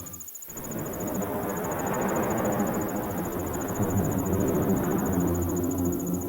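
Crickets chirping in a fast, even trill, under a loud rushing wind that swells up after a brief dip at the start. Low steady drone tones come back in near the end.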